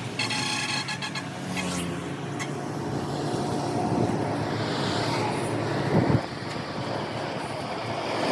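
Road vehicle engine and traffic noise running steadily, with one short sharp knock about six seconds in.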